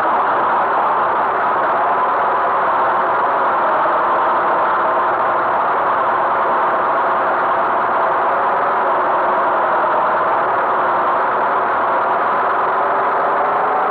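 Tractor engine running steadily at a constant speed, its pitch drifting only slightly.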